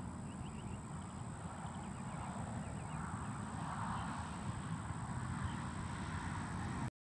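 Outdoor ambience: a steady low rumble with a thin, steady high whine and faint, short high chirps scattered through it. The sound cuts off abruptly near the end.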